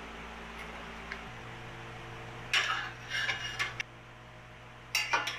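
Steel clanking and clinking, with short metallic rings, as the homemade bender's parts and the steel stock are handled and set in place for a bend. One cluster of knocks comes about halfway through and another near the end, over a steady low hum.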